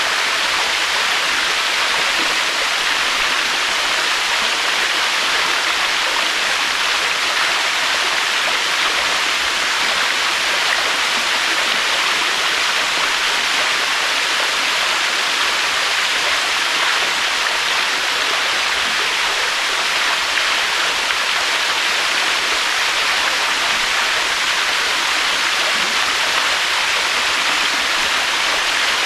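Waterfall: a steady rush of falling water, an even hiss that holds level throughout with no surges or breaks.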